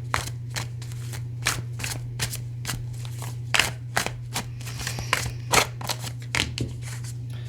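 Tarot cards being shuffled and handled: a run of irregular crisp snaps and riffles, over a steady low hum.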